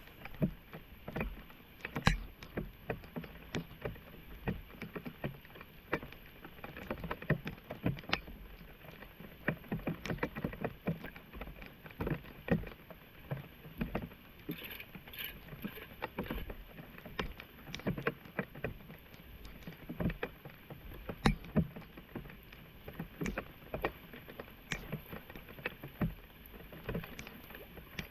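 Flood water splashing and sloshing in irregular strokes, about one or two a second.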